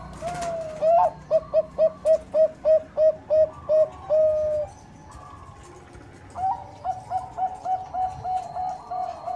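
Perkutut bangkok (Bangkok-strain zebra dove) cooing: a quick run of about a dozen short coos ending in one longer held note, then after a pause a second, softer run begins. A few sharp clicks near the start.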